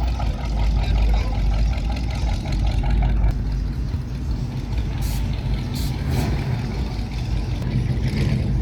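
Classic car engine running, a low rumble with a fast, even pulsing for the first three seconds or so that then fades as the car passes, with a few short hisses around the middle.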